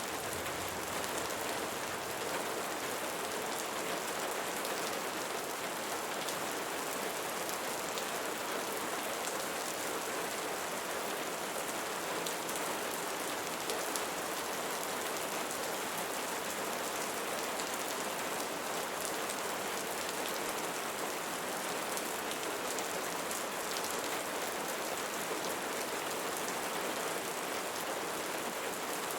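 Steady rainfall: an even hiss of water, dense with fine drop ticks, with no change in strength.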